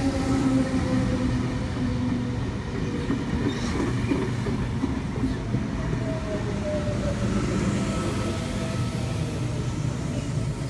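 V-set double-deck electric intercity train pulling into a station platform, slowing over a steady rumble with a whine that falls slowly in pitch.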